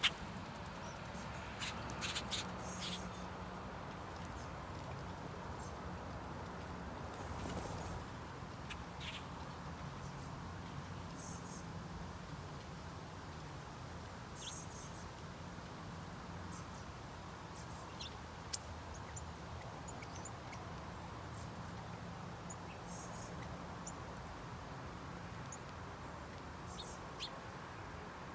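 Scattered short, high bird chirps over a steady low hum, with a few sharp clicks.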